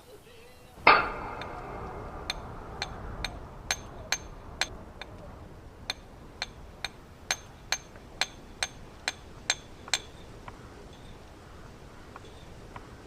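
A hammer working stone: one heavy knock about a second in, then a steady run of sharp metallic taps, roughly two a second, each with a bright ring. The taps stop about ten seconds in.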